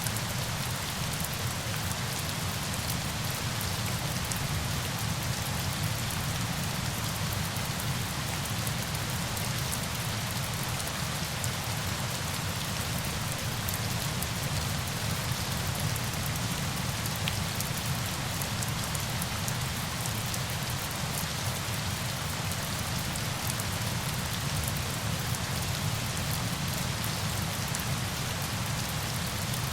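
Steady rain falling: an even hiss dotted with fine drop ticks, over a low rumble that stays level throughout.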